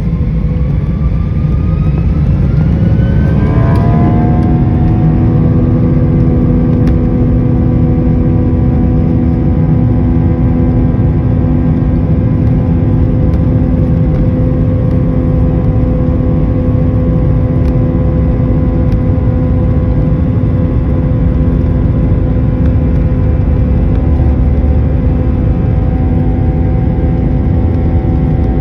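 Jet airliner engines spooling up to takeoff thrust: a whine of several pitches rises over the first four seconds, then holds steady over a heavy rumble.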